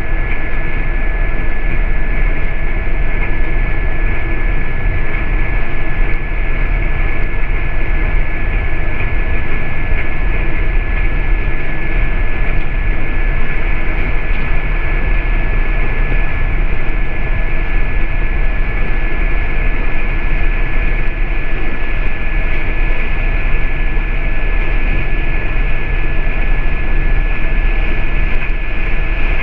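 City bus heard from inside the cabin while driving: a steady rumble of engine and road with a constant high whine running through it.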